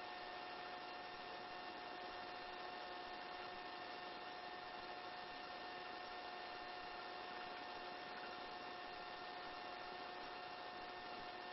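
Faint, steady hum and hiss on a helicopter's intercom feed, with a few steady tones from the aircraft's electrics and engine bleeding into the line.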